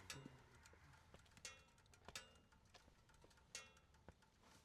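Near silence broken by faint, irregular metallic ticks, some with a short ringing tone, several per second at first and then further apart.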